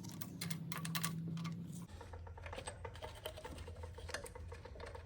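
Light, quick, irregular clicking and tapping of hand tools on a Ford 289 V8 while its cylinder head is being unbolted.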